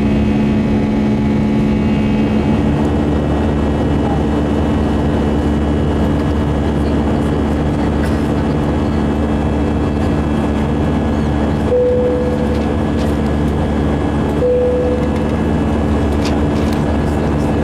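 Steady engine and airflow noise inside the cabin of an Airbus A319 in flight, with a layered engine hum; one of the lower hum tones fades away about two seconds in. Two short, identical beeps sound about three seconds apart near the middle.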